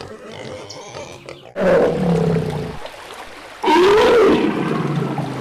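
Two loud, drawn-out farm animal calls, the first starting about a second and a half in and falling in pitch, the second a little after and rising then falling.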